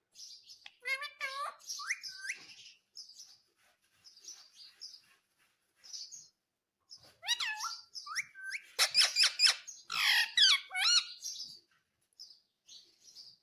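Indian ringneck parrot calling: a string of shrill chirps and squawks that slide up and down in pitch, in two busy runs with short chirps between them.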